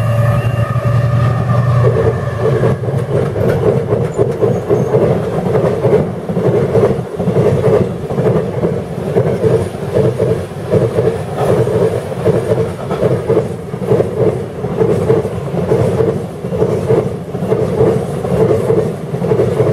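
Class 70 diesel locomotive passing close by, its engine tone fading over the first few seconds, followed by a long rake of freight wagons rolling past with a steady rhythmic clatter of wheels on the rails.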